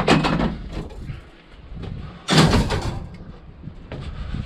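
Scrap metal clattering as it is loaded, with two loud metallic crashes about two seconds apart, each ringing briefly. Wind rumbles on the microphone underneath.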